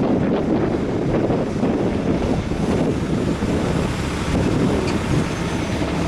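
Intermodal freight train cars rolling past with a steady rumble, with wind buffeting the microphone.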